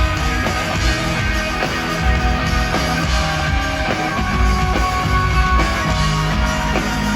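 Rock band playing live, an instrumental passage without vocals: guitars over bass and drum kit.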